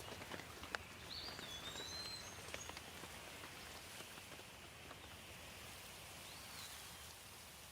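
Steady light rain with scattered individual drops ticking close by. A bird gives short whistled calls twice, about a second in and again near the end.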